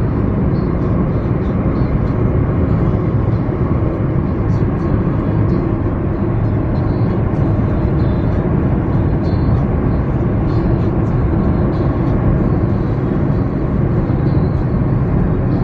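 Steady road and engine noise of a moving vehicle, heard loud and unbroken throughout.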